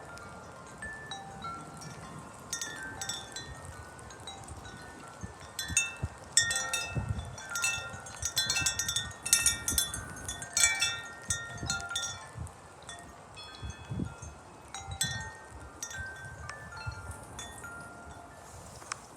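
Wind chimes struck by gusting wind, many overlapping ringing tones that come thickest partway through and thin out towards the end, over a low rumble of wind.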